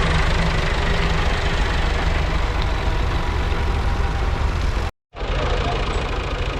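Tractor diesel engine running steadily, cutting out abruptly for a moment about five seconds in before carrying on.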